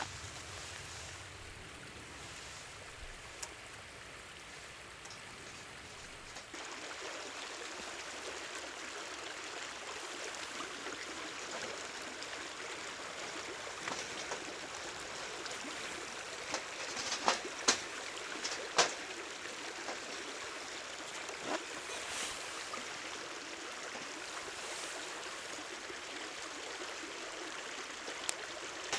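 River water running steadily, with a few sharp clicks or knocks a little past the middle.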